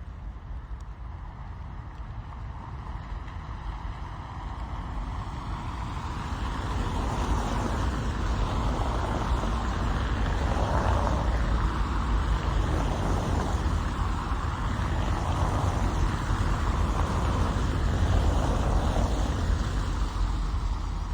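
Vehicle noise: a low rumble under a hissing wash that builds over the first several seconds, then holds with slow swells.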